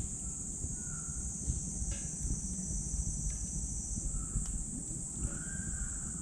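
Steady high-pitched insect chorus over a wood fire burning in a small titanium wood stove, with a few sharp crackles from the burning wood and a low rumble.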